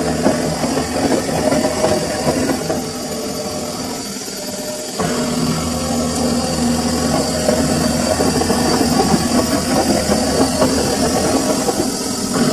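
Samsung washing machine running a full load, its drum motor humming steadily. About four seconds in the hum dies down, and a second later the motor starts up again suddenly, typical of the drum pausing and turning the other way during the wash.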